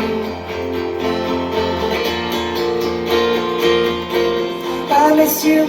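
Acoustic guitar strumming in a live band performance, between sung lines. A singing voice comes back in near the end.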